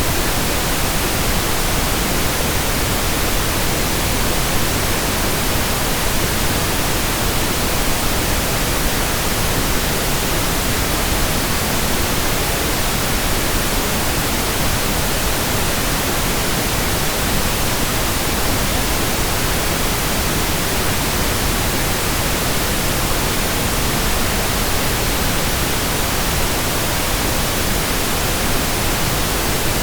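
Steady, unchanging pink noise: an even hiss spread across all pitches, without breaks or changes in level.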